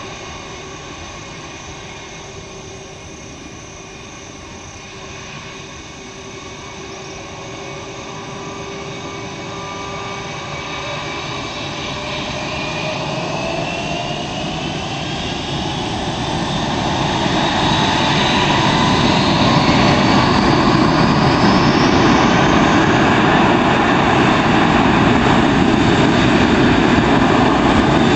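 Airbus A319's twin jet engines spooling up for takeoff: a whine climbs steadily in pitch while the engine noise grows louder over the first twenty seconds or so, then holds steady and loud.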